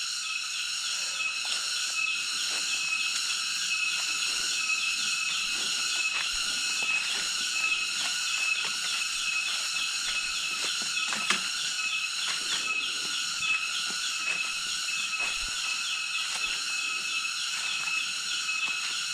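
A chorus of cicadas shrilling steadily: a high, fast-pulsing drone with a constant whine on top. Faint scattered clicks and rustles come through underneath.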